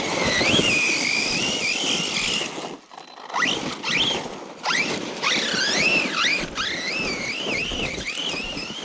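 RC truck's brushless electric motor running hard, its whine swooping up and down with the throttle over rough running noise, with several quick rising spin-ups in the middle.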